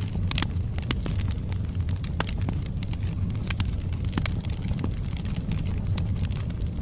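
Log fire burning in a fireplace: frequent irregular sharp crackles and pops of burning wood over a steady low rumble of the flames.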